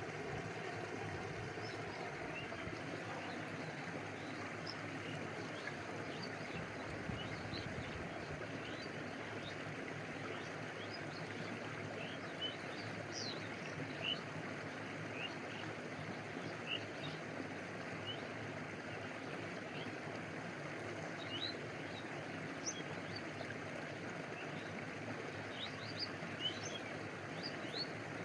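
Stream water running and lapping in a steady wash. Short high chirps are scattered through it, more often in the second half.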